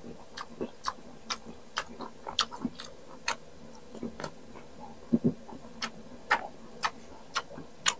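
Close-up chewing of crisp unripe green mango: a string of short, sharp crunches at irregular spacing, a few a second.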